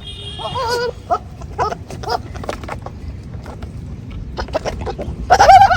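Goats and sheep bleating. There is a wavering bleat about half a second in, a few short calls over the next second and a half, and a louder bleat near the end.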